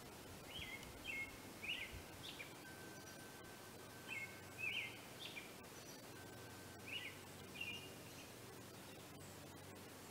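A bird chirping in three short bouts of a few quick notes each, over faint outdoor background noise.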